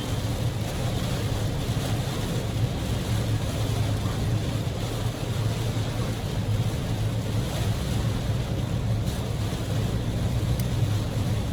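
Heavy typhoon rain beating on a moving Daihatsu Move (L150S) and its tyres hissing on the flooded road, heard inside the cabin: a loud, steady rushing noise over a low drone.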